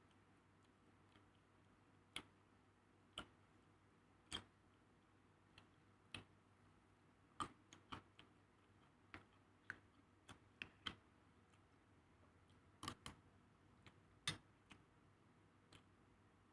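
Faint, irregular sharp clicks and taps over a quiet room background: a few widely spaced at first, more frequent in the middle, the loudest about two-thirds of the way through.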